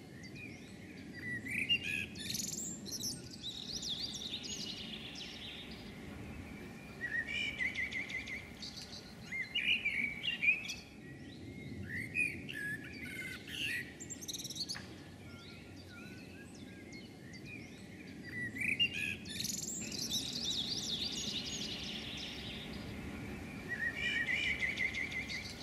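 Songbird singing in short warbled phrases that come every few seconds, over a low steady background noise.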